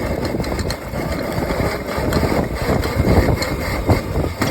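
Wind buffeting the microphone over the rolling and chain noise of a small electric dirt bike being ridden, with a few scattered clicks.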